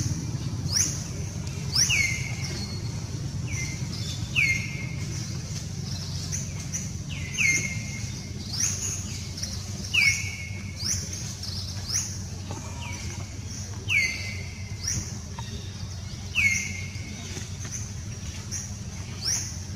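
A bird calling with short, high chirps that fall in pitch, repeated roughly once a second with occasional pauses, over a steady low rumble of outdoor background noise.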